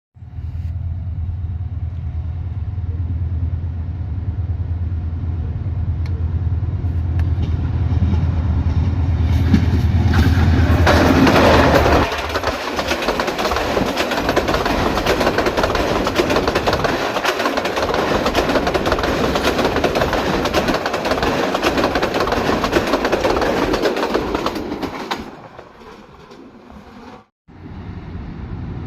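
A diesel locomotive hauling an express passenger train passes close by. Its engine drone grows louder for the first twelve seconds or so. Then the coaches roll past with a steady rush and clatter of wheels on rail, which fades near the end.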